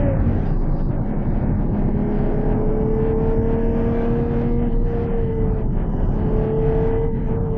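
Ferrari Purosangue's naturally aspirated V12 running under way. Its note falls quickly at the start, then holds steady and creeps slightly higher, dipping briefly about five to six seconds in before picking up again.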